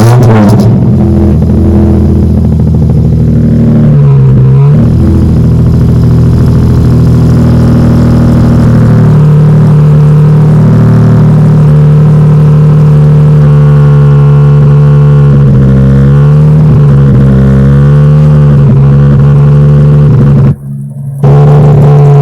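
Nissan 350Z's 3.5-litre V6 running at a steady fast idle just after a cold start, its pitch dipping and wavering briefly a few times. The sound drops away for a moment near the end.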